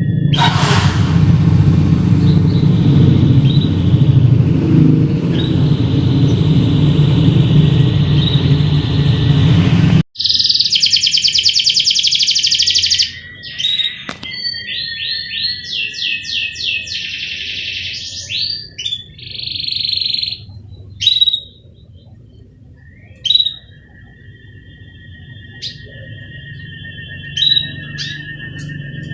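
A loud, even rushing noise for about the first ten seconds, cut off abruptly. Then domestic canaries sing in fast, rattling trills and chirps, which thin to scattered chirps near the end.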